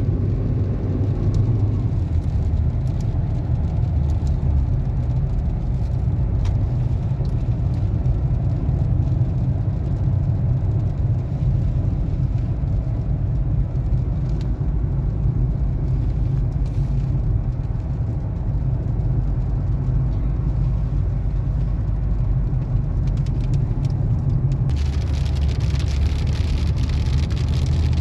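Car driving in rain: steady engine and road rumble with scattered raindrops tapping. A louder hiss of rain or wet road comes in near the end.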